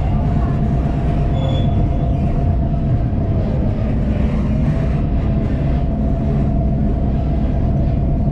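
Passenger train heard from aboard a coach as it rolls along: a steady low rumble of wheels on rail, with a thin steady whining tone over it.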